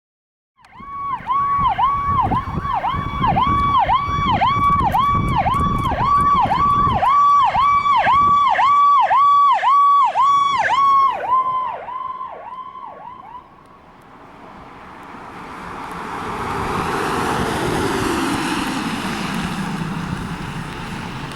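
Fire apparatus electronic siren sounding one tone that dips sharply about twice a second, over a vehicle engine's rumble. It fades out about two-thirds of the way through and gives way to a rushing noise with a tone that slowly falls in pitch.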